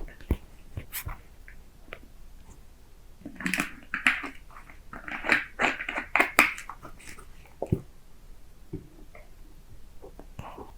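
Close-miked mouth sounds of drinking coffee: scattered small clicks, and a run of louder sips and swallows in the middle.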